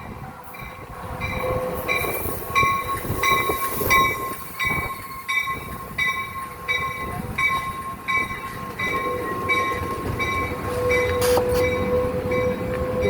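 Amtrak Capitol Corridor passenger train arriving at a station: a bell rings steadily about three strokes a second over the rumble of the train, with a thin steady squeal from the wheels that strengthens near the end.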